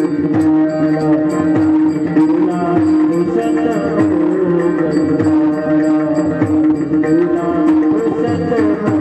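Instrumental passage of Marathi gavlan folk-devotional music. A hand drum plays a steady rhythm under a sustained, wavering melody line, with regular high metallic strikes about three times a second.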